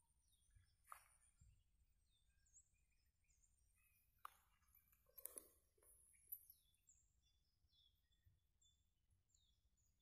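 Near silence by a lake, with faint bird chirps: a run of short, high, falling calls, and a few brief louder sounds near the middle.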